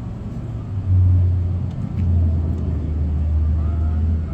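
A motor vehicle's engine running with a steady low rumble. It grows louder about a second in and settles slightly lower in pitch about two seconds in.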